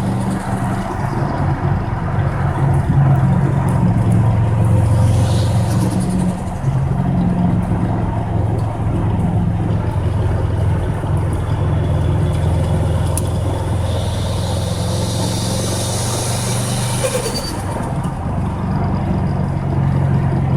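Car engine and road noise while cruising at highway speed, running evenly with no stumble heard, even though the check-engine light is flashing misfire codes that the owner takes for phantom codes. A higher rushing noise swells for a few seconds about two-thirds of the way in.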